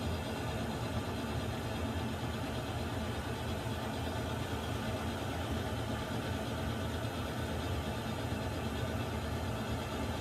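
Water heater running: a steady low rumble with a hiss over it, unchanging throughout.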